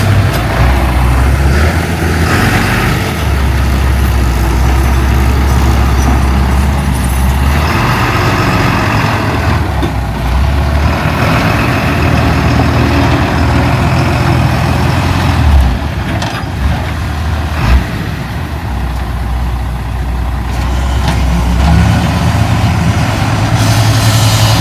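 Diesel engine of heavy earthmoving machinery running under varying load, its low note shifting up and down. Two sharp knocks come about two-thirds of the way through.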